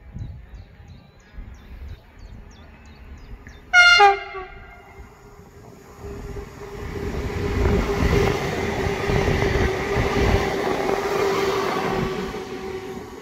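PESA Elf EN63 electric multiple unit sounds one short, loud horn blast about four seconds in. It then approaches and passes close by, the rumble of its wheels on the rails swelling, peaking and starting to fade near the end, with a steady whine under it.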